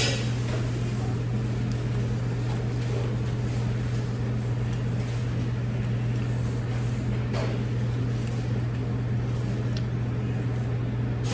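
A steady low mechanical hum, with a couple of faint clicks about two-thirds of the way in.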